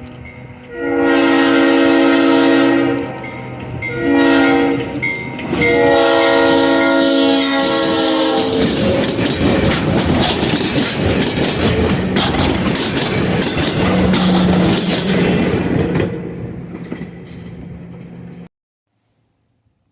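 Alco RS-11 diesel locomotive sounding its air horn: a long blast, a short one and another long one, the closing part of a grade-crossing signal. The train then passes close by, with loud, rapid clicking of wheels on the rails over the diesel engine's note. The sound fades and cuts off suddenly near the end.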